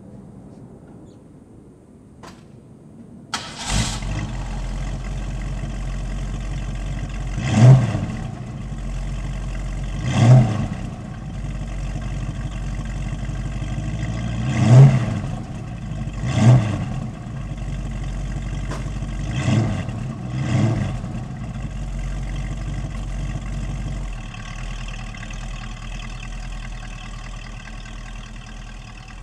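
A 1968 Ford Mustang's engine starting about three seconds in, then idling with six short blips of the throttle, heard from behind at the exhaust. After about 24 seconds it gets quieter as the car drives forward into the garage.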